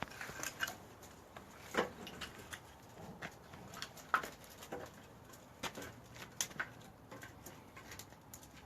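Pine wood burning in a traditional wood-fired kiln, crackling with irregular sharp pops over a faint steady hiss.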